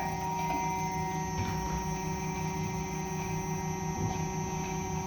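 High-voltage torque motor running steadily at about 800 RPM, a steady electric hum made of several fixed tones with a fast, even pulsing low down.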